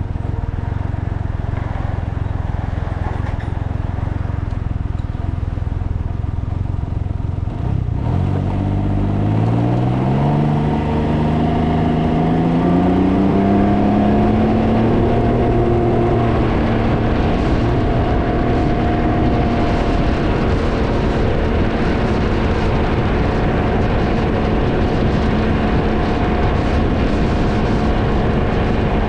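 Can-Am Ryker three-wheeler engine under way, over heavy wind noise on the microphone. About eight seconds in the engine note climbs steadily as it accelerates, then settles into a steady cruising drone.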